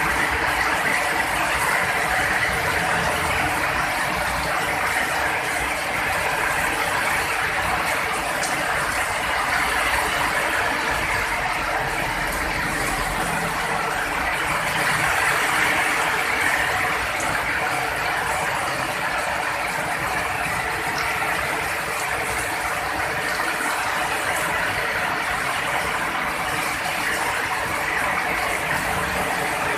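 Heavy rain falling steadily in a dense, even patter.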